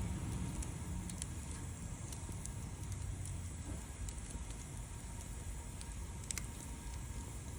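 Wood fire burning, with scattered light crackles and pops over a low steady rumble; one sharper pop comes about six seconds in.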